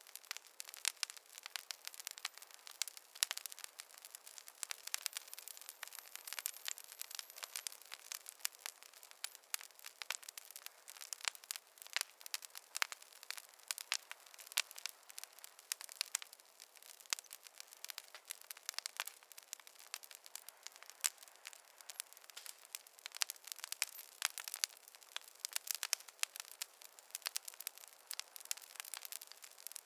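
Campfire crackling steadily: a dense run of small, irregular pops and snaps, several a second.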